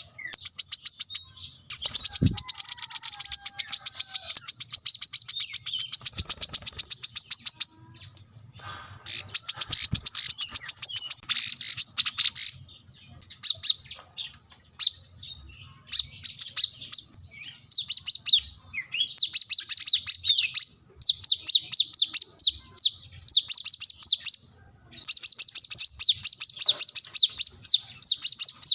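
Brown-throated sunbird (kolibri kelapa) singing: long runs of very fast, high-pitched chirping trills, broken by a few short pauses and scattered single chirps.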